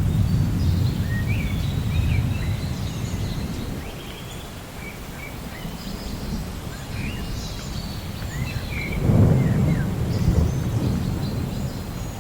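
Rainforest ambience: many birds chirping and whistling over a low rumble of thunder, which fades over the first few seconds and swells again about nine seconds in.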